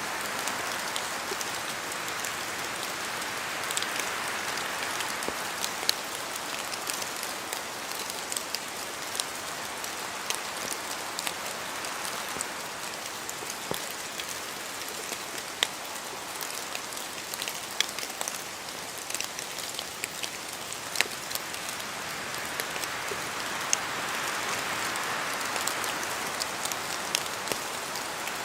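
Steady rain falling in a forest, with many sharp ticks of heavier drops falling from the trees. A soft swell of wind in the trees comes and goes near the start and again near the end.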